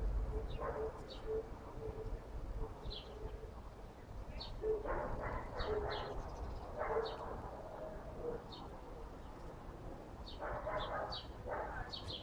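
Birds chirping: short high chirps about once a second, with a run of short low cooing calls in the first few seconds and a few brief rustling noises later.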